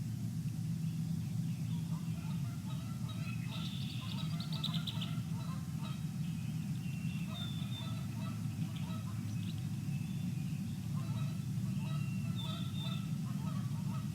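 Birds calling in runs of quick repeated notes, with higher short calls mixed in, over a steady low rumble.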